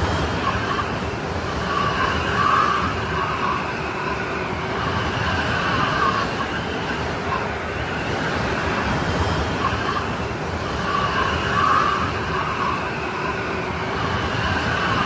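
Strong snowstorm wind blowing steadily with a low rumble, and a whistling tone that swells and fades in two gusts, about two seconds in and again near the end.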